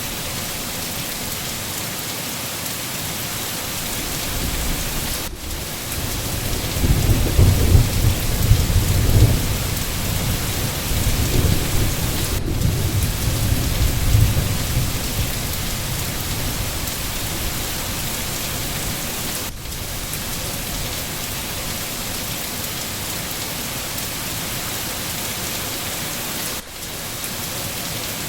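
Steady rain hissing evenly, with a low roll of thunder rumbling from about six seconds in until about fifteen seconds in.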